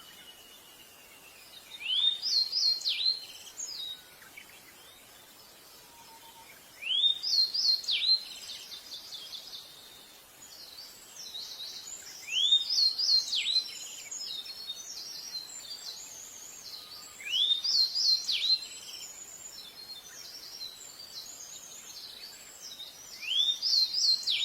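Pied bushchat singing: five short song phrases at about five-second intervals, each a quick run of rising notes, with softer chirps in between.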